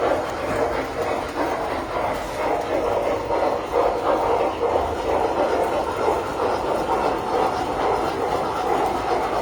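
Tinplate toy trains running on metal track, a steady rolling clatter of wheels.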